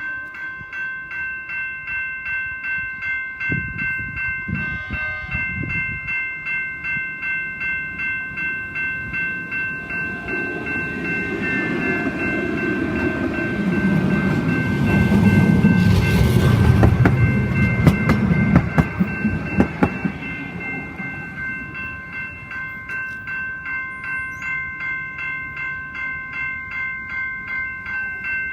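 Level-crossing electronic bells (GS Type 2 E bells) ringing in a steady rapid pulse, about two and a half strokes a second. Midway a tram passes over the crossing with a loud rumble and a run of wheel clicks, then fades away while the bells keep ringing.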